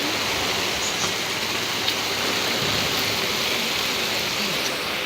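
Heavy rain falling in a storm: a steady, even hiss.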